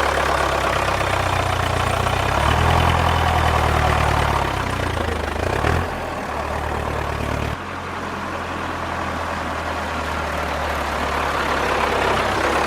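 Low tractor engine running steadily, revving up for about two seconds a couple of seconds in and settling back, with the sound changing abruptly just past halfway.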